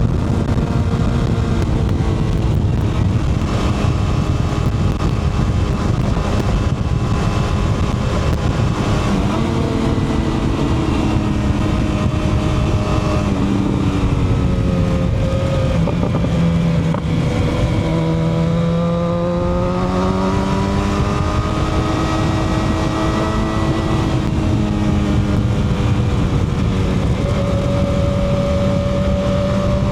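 Motorcycle engine running under way, its pitch slowly falling and rising with throttle and speed, over a steady loud rushing noise.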